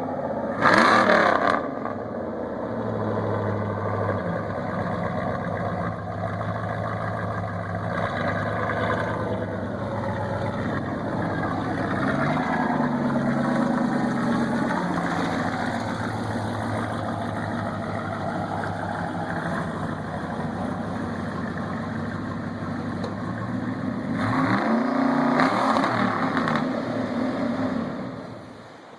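1998 Dodge Dakota's V8 running through straight-piped exhaust stacks: a short rev about a second in, then a steady idle with a small blip around the middle, and another rev near the end.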